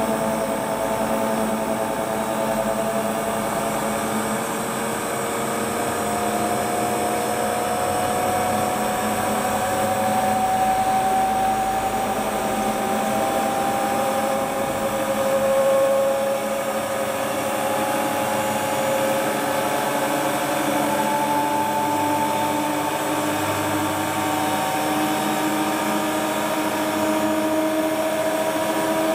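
Washing machine drum motor running under power, turning the drum on a new drive belt: a steady whine whose pitch drifts slowly up and down.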